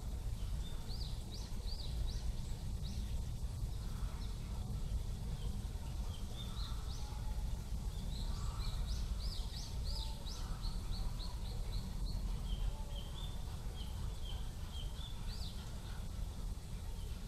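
Small songbirds chirping in quick runs of short high notes, coming and going several times, over a steady low background rumble.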